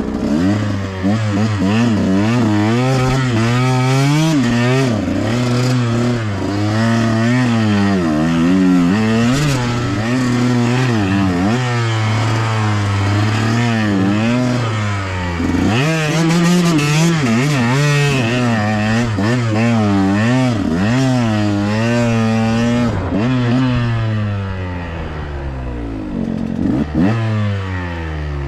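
Two-stroke KTM 125XC dirt bike engine being ridden hard, the throttle opened and closed over and over so the engine note rises and falls every second or so, with some clattering. Near the end the revs drop lower.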